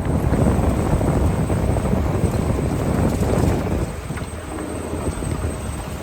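Grimme Varitron 270 potato harvester at work, with potatoes and soil rattling and knocking continuously over its webs and elevator.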